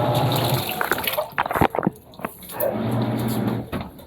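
Water running and splashing inside a Panasonic washing machine's drum in blanket mode, with a low hum twice and a cluster of sharp knocks in the middle.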